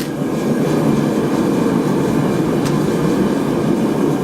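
Blacksmith's forge running with a steady low roar, with one faint tick about two and a half seconds in.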